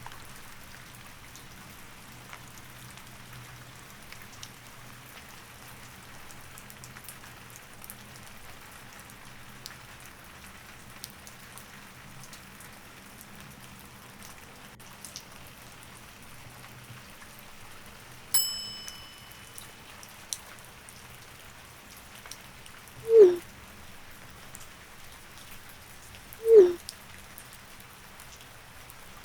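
Steady rain with scattered drip ticks. A single bright ding rings out briefly about two-thirds of the way through. Near the end come two short, loud, low calls that fall in pitch, a few seconds apart.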